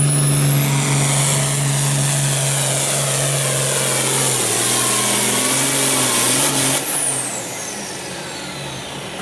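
Hot Farm class pulling tractor's diesel engine running hard under load, with a high whistle that climbs over the first second or so and holds. About seven seconds in the engine is throttled back, the whistle winds down and the sound drops.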